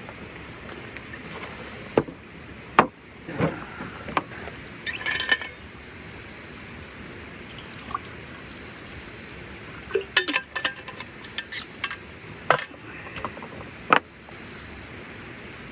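Scattered clinks and knocks of cooking gear being handled, with a short hissing burst about five seconds in and a quick run of clicks near the end, over a steady background hiss.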